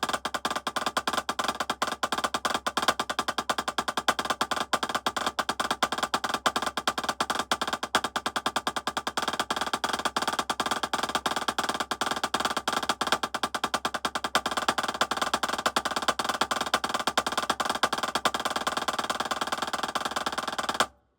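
Drumsticks playing a rapid triplet drags-and-rolls rudiment exercise: a dense, even stream of stick strokes with grace-note drags and rolls, cutting off suddenly near the end.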